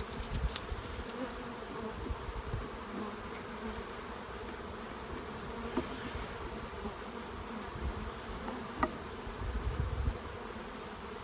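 Honey bees buzzing steadily around an open hive of a recovered swarm, a continuous colony hum with a few faint knocks.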